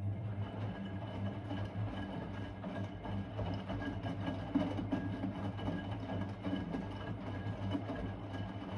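Blomberg WA391 washing machine running early in a 90 °C boil wash: a steady motor hum with a faint high whine.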